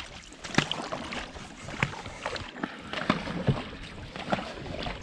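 Dragon boat crew paddling: the paddle blades strike and pull through the water in a steady rhythm, about one stroke every second and a quarter, over the splash and rush of water along the hull.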